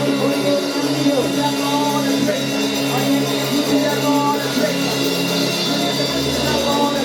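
Live church worship music: a band with bass and sustained keyboard or guitar notes, playing steadily, with faint singing.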